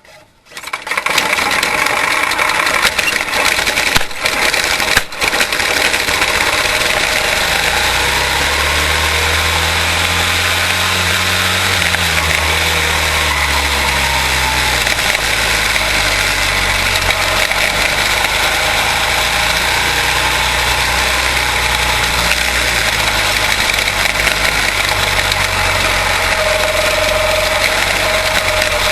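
Quarter midget race cars' single-cylinder Briggs & Stratton Animal engines running on track, a steady, dense engine buzz. Between about eight and fifteen seconds in, one engine's pitch rises and falls, and two short knocks come near the start.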